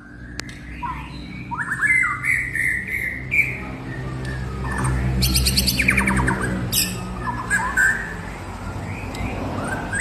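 A small cage bird calling in short chirps and quick sweeping notes, with a fast high trill about five to seven seconds in.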